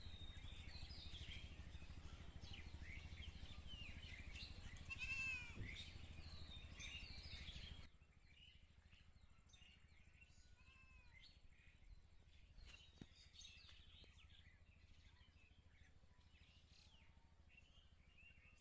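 Birds chirping and calling over a low outdoor background. About five seconds in comes a louder arching call with overtones. Near the middle the background drops suddenly quieter, and fainter scattered bird calls go on.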